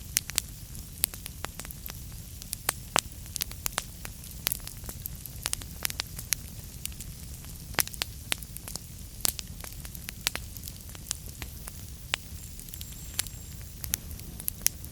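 Wood fire crackling in a fireplace: many sharp pops and snaps at irregular intervals over a low steady rumble of the flames. It starts abruptly out of silence.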